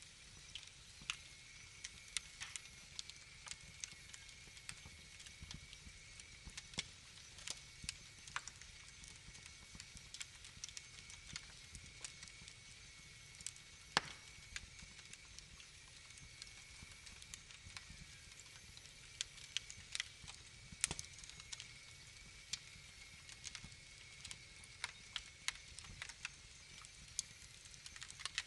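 Wood fire crackling in a fireplace: irregular sharp pops and snaps over a low, steady hiss and rumble, with one louder snap about halfway through.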